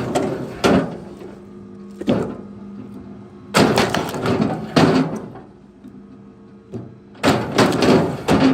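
Three bursts of heavy knocks and clatter, each a quick run of several hard impacts with a short ringing tail, over a faint steady hum.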